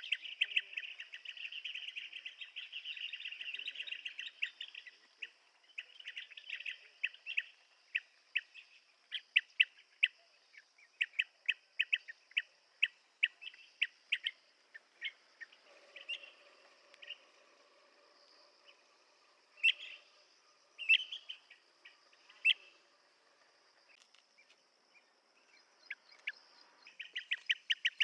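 Blue-tailed bee-eater calling: a rapid rolling trill for the first few seconds, then a run of short clipped notes that grow sparser in the second half.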